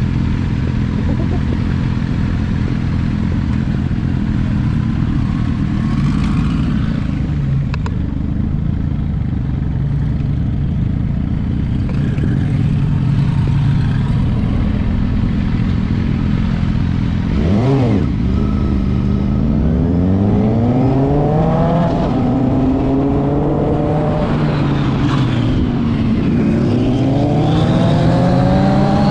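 Twin-turbo Lamborghini engine running at a low, steady idle rumble. About eighteen seconds in it starts accelerating hard, its pitch climbing and dropping back at each of several gear changes.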